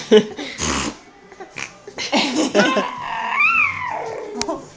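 A baby's high-pitched squeals and coos, the "birdie noises", with one drawn-out squeak that rises and falls about three seconds in.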